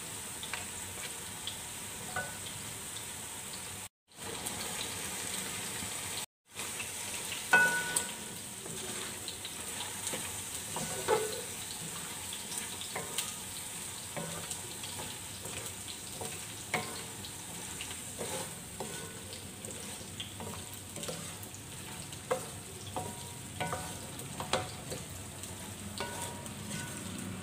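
Boiled chickpeas frying in spiced oil and masala in a metal pan: a steady sizzle, with the spatula scraping and clicking against the pan as it stirs. The sound cuts out completely twice, briefly, in the first seven seconds.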